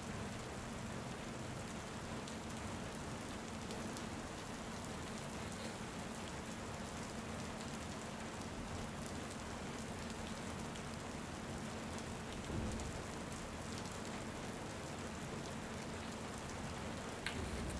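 Steady rain falling: an even hiss with a fine patter of drops, unchanging in level.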